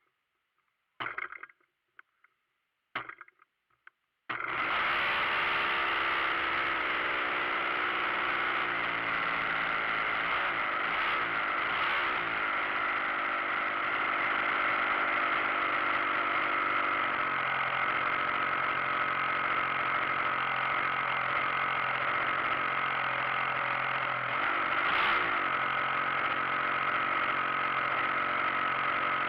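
Quarter-scale RC model airplane's engine being started: two brief sputters in the first few seconds, then it catches about four seconds in and runs steadily.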